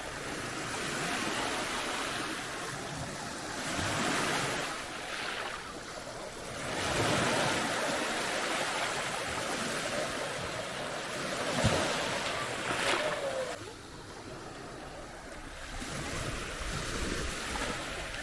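Sea waves breaking and washing up a sandy beach, the surf swelling and falling back in surges. A single sharp click cuts through a little before the two-thirds mark.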